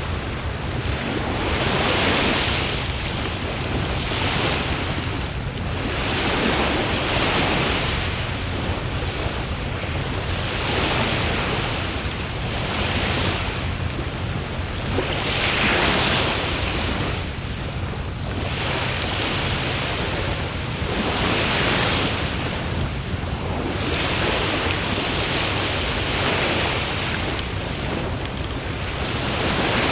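Wood fire burning in a Coleman Fire Disc fire pit, with a steady rushing noise that swells and fades every two to three seconds, a few faint crackles, and a steady high-pitched whine.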